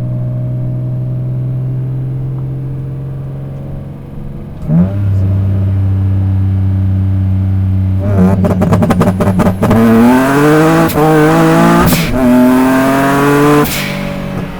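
The V6 of a single-turbo Nissan 350Z pulls hard under acceleration. Its pitch climbs, breaks at a gear shift about twelve seconds in, then climbs again before backing off near the end. Earlier there is a steadier drone, a jump in volume about five seconds in, and a rapid chatter of clicks around eight to nine seconds. The tires scrub on the shift.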